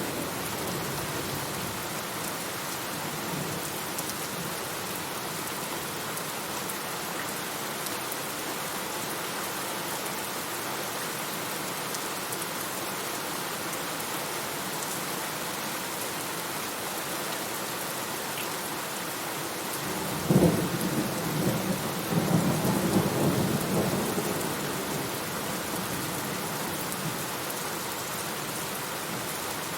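Rain falling steadily, with a sudden thunderclap about two-thirds of the way through that rumbles on for several seconds before fading.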